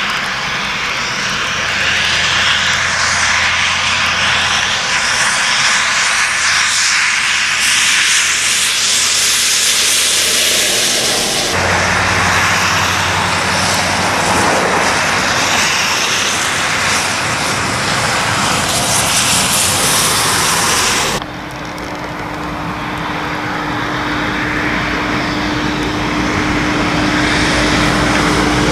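Lorries passing on a wet road in the rain: diesel engines running and tyres hissing through surface water. The sound is split into three shots by abrupt cuts, about 11 and 21 seconds in, and the last shot carries a steady engine hum.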